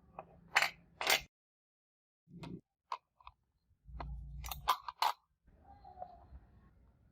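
Metal parts or tools being handled in a workshop: a series of short metallic clinks and knocks. Two loud clinks come about half a second and a second in, and a cluster of three follows near the middle after a dull knock. The sound cuts out abruptly between them.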